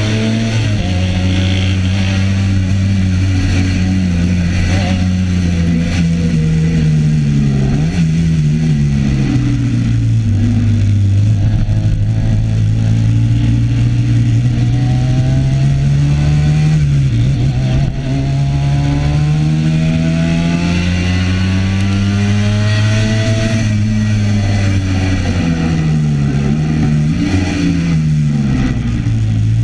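Classic racing motorcycle engine heard from on board, accelerating and slowing for the corners: the note climbs and falls repeatedly, with brief sharp dips in pitch at the gear changes.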